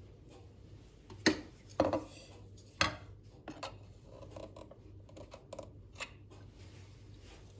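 Kitchen handling sounds: a few sharp clacks of utensils and containers being set down on a counter, the loudest three in the first three seconds, with light rustling and small taps between them.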